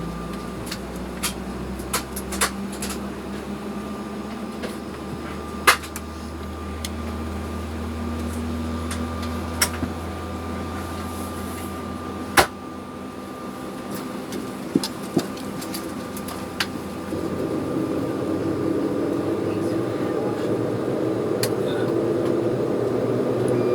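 Steady ventilation hum in the cabin of an Embraer 190 airliner, broken by scattered sharp clicks and knocks. About two-thirds of the way through, a low hum that rises slowly in pitch joins in and the sound grows a little louder.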